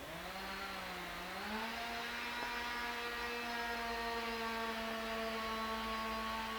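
Diesel locomotive air horn sounding one long, steady note. The pitch slides up as it comes on and drops as it is released.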